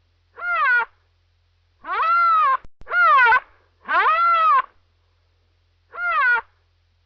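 Domestic cat meowing, five separate meows, each rising then falling in pitch, with short gaps between them.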